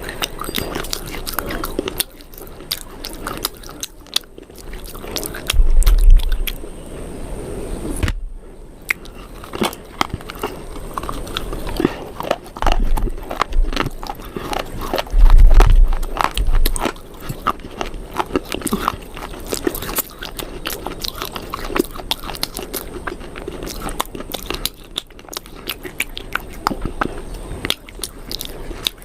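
Close-up chewing and biting of a crunchy food: dense sharp crunches with wet chewing between them. Twice a dull low thump stands out as the loudest sound.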